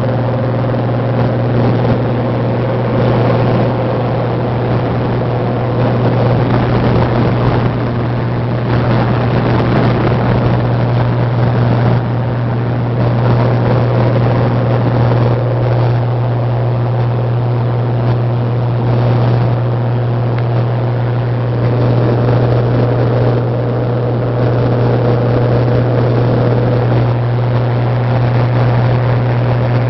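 Cessna 182's piston engine and propeller droning steadily in flight, with a constant rush of air noise over it.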